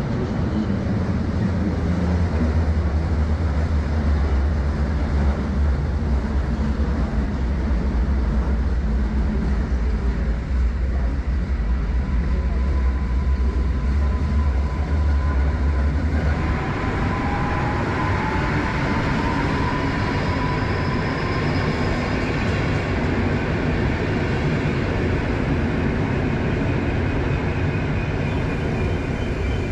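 A train running on the rails, with a strong low drone through the first half that then drops away, leaving a steady rushing noise. A thin squeal wavers and glides in pitch around the middle.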